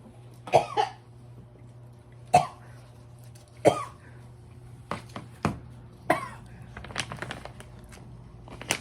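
A person coughing and gagging in short separate bursts, about eight of them, a reaction to a foul-tasting bite of food.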